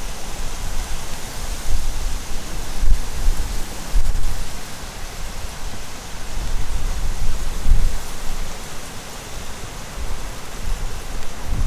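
A steady rushing hiss, with gusts of wind buffeting the microphone in low, uneven rumbles every second or two.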